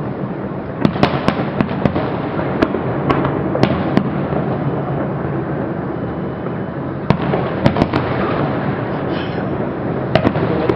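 Fireworks salute going off: a continuous rumble of bursts and crackling with sharp cracks in clusters every few seconds.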